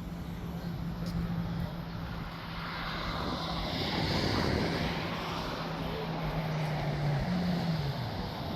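An engine idling with a steady low hum that drops in pitch near the end, while a passing vehicle swells and fades about four seconds in.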